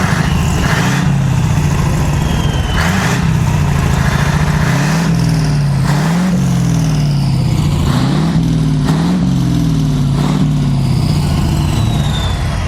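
Scania racing truck's diesel engine running loud, its pitch repeatedly rising and dropping back as it revs up and comes off the throttle several times.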